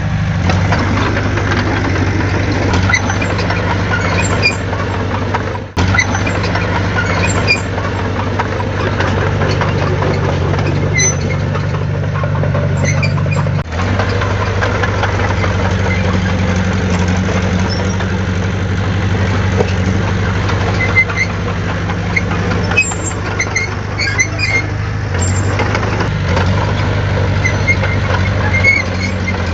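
Heavy diesel engine of earthmoving machinery running steadily, with two brief dips in the sound, near 6 s and near 14 s.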